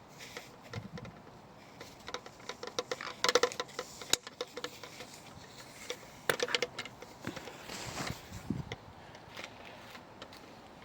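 Aubergine plants being handled during harvesting: leaves and stems rustling, with two short clusters of quick clicks and one sharp click as the fruit is cut from the plant.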